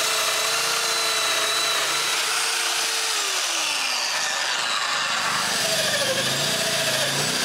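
Power tool cutting mortises in wooden plank edges, its motor running steadily. The motor pitch sags as it bites about three seconds in, then climbs back near the end.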